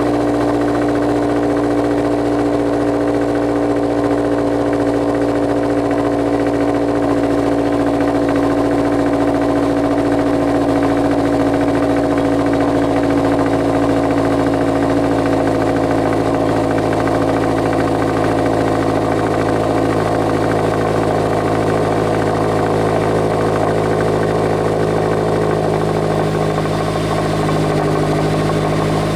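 Honda S2000 inline-four idling after a cold start through an Invidia Q300 catback exhaust with a test pipe in place of the catalytic converter, a steady, even idle that settles slightly lower near the end.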